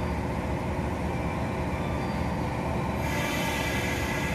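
Train running through the station: a steady rumble of the cars on the rails, with a higher hiss coming in about three seconds in.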